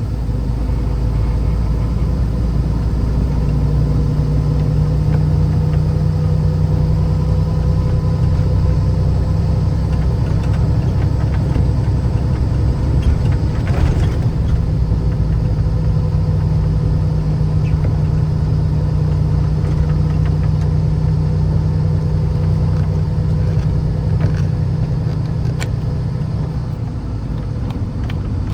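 Vehicle driving: a steady, low engine and road rumble with a faint steady hum.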